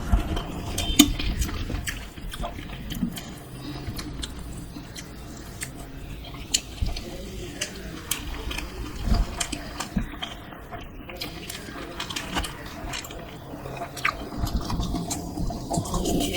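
A person biting and chewing dosa close to the microphone: irregular sharp crunches and mouth clicks over low chewing noise.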